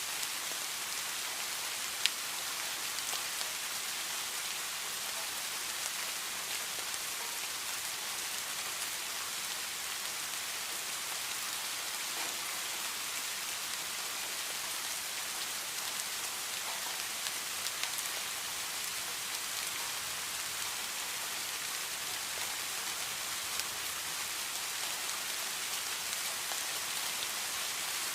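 Steady rainfall: an even hiss of rain with scattered individual drop ticks, one sharper drop tick about two seconds in.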